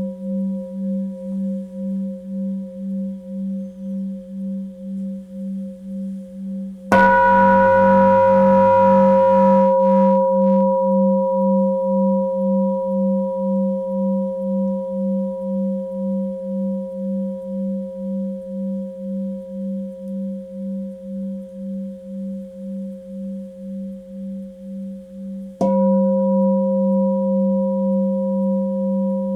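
Tibetan singing bowl struck twice, about seven seconds in and again near the end, each strike ringing on in a long, slowly fading tone. The tone throbs about one and a half times a second.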